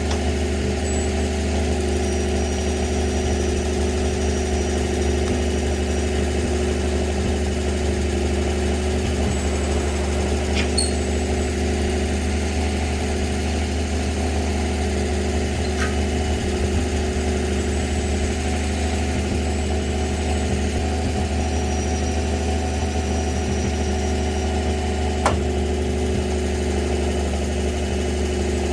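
Winch truck engine idling steadily, with three sharp clicks or knocks spread through it, the last one the loudest.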